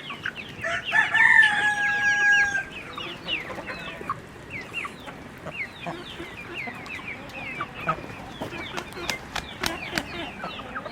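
Chickens clucking and calling over one another, with a rooster's crow about a second in that ends in a long held note. A few sharp clicks come near the end.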